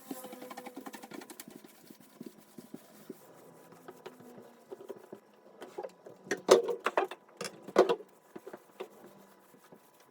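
A rapid run of light clicks for about a second and a half, then scattered ticks, and a cluster of sharp knocks and clatters about six to eight seconds in.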